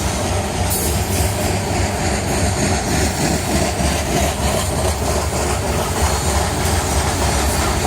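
Freight train cars rolling past on the main line: a steady loud rumble and rattle of steel wheels on the rails.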